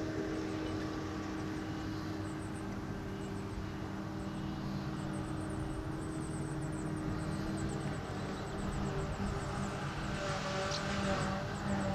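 Diesel engines of silage-harvesting machinery (forage harvester and tractors) running steadily. A steady whine drops out about eight seconds in, and the sound grows a little louder near the end, with faint quick high chirps over it.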